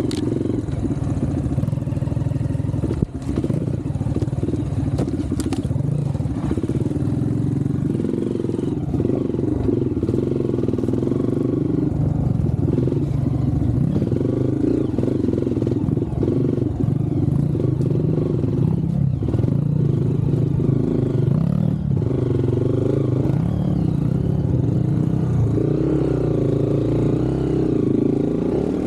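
Off-road trail motorcycle engine running under changing throttle, its pitch rising and falling throughout. There is a sharp knock about three seconds in.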